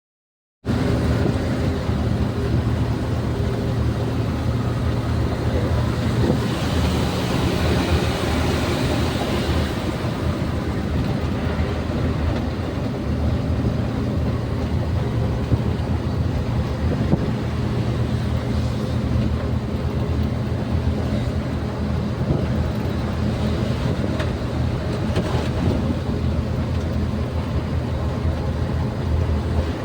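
Vehicle engine running steadily on the move: a low, even drone with road noise over it.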